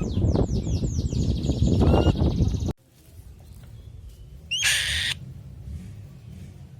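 A bird calling in a rapid run of high, falling notes, about seven a second, over a low rumble; it cuts off abruptly near three seconds in. About two seconds later comes a short, harsh, high-pitched burst, then only a low hum.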